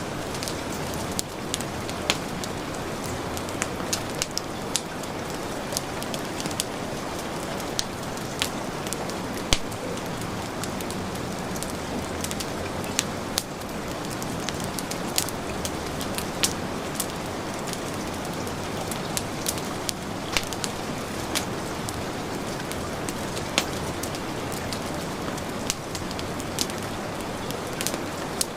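Steady heavy rain with a wood fire crackling, sharp irregular pops scattered through, one louder pop about ten seconds in.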